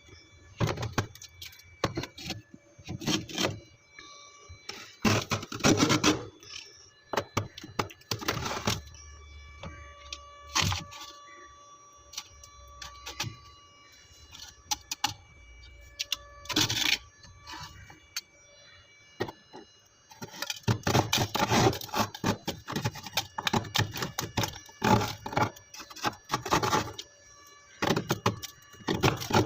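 Crunchy scraping of frozen frost ice from a freezer, in irregular bursts that are sparse at first and turn dense and nearly continuous for the last third.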